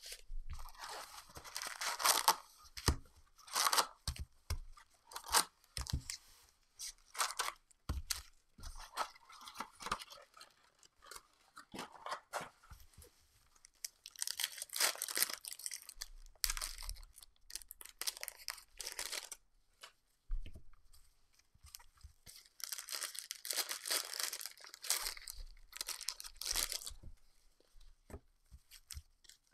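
Trading-card pack wrappers being torn open and crinkled in a series of bursts, with short clicks and taps of cards being handled in between.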